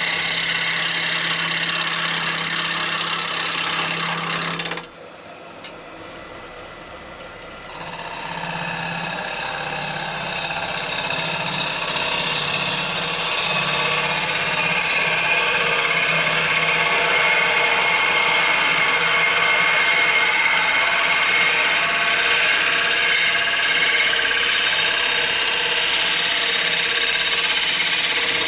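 Wood lathe running with a bowl gouge cutting into a rowan-wood bowl blank: a loud hiss of cutting over the low hum of the lathe. About five seconds in the cutting stops suddenly and it goes quieter for a few seconds, then the cutting starts again and grows louder.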